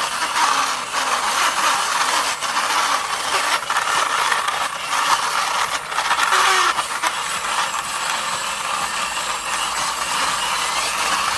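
Toy school bus pushed along by hand, its plastic wheels rolling with a continuous rattle and scattered clicks.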